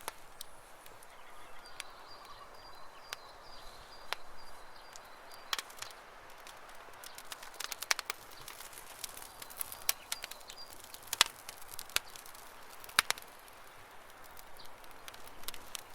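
Campfire crackling, with irregular sharp pops and snaps, the loudest about 11 and 13 seconds in. A faint high bird trill sounds twice in the background.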